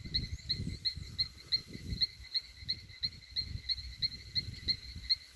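An insect, likely a cricket, chirping steadily in an even train of short high chirps, about four a second. An irregular low rumble runs underneath.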